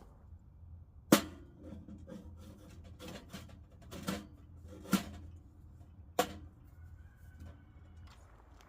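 A series of sharp knocks and clatters of hard objects being handled, irregularly spaced, the loudest about a second in.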